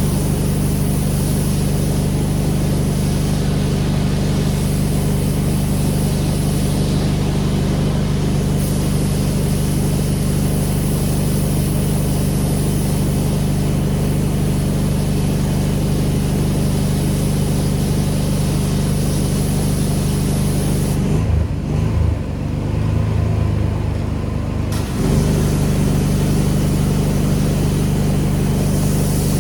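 Pressure washer's gas engine running steadily under load, with the hiss of the water spray. About 21 seconds in the spray stops for roughly four seconds and the engine note shifts, then the spray and the steady note come back.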